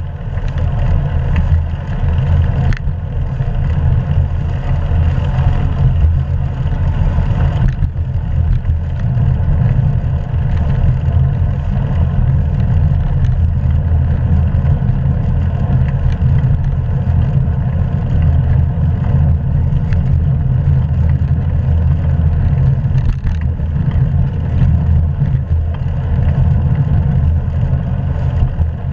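Steady low rumble of wind buffeting a GoPro camera's microphone on a moving bicycle.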